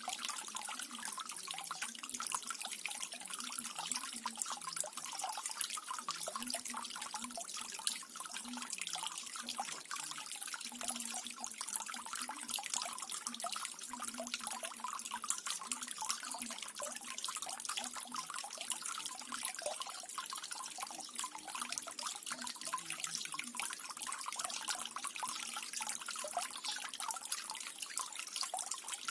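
Small garden waterfall running steadily, water trickling and splashing in a dense patter of fine drips.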